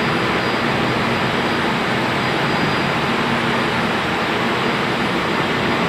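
Boat engine running steadily: a constant loud rush with a faint low hum and a thin high whine.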